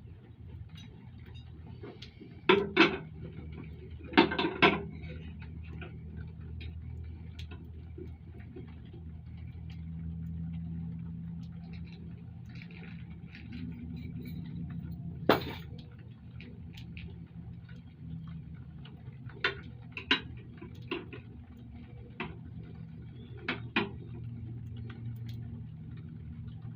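Metal clinks and clicks of a socket wrench, bolts and rack parts as a luggage rack is bolted onto a motorcycle, with scattered sharp clinks, the loudest about 3, 4.5 and 15 seconds in, over a steady low hum.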